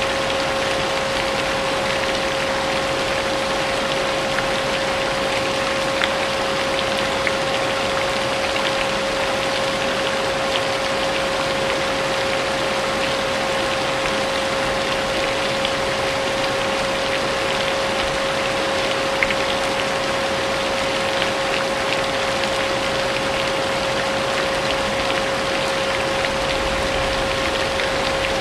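A vacuum cleaner running steadily with an unchanging motor whine, mixed with steady rain and the occasional tick of a drop.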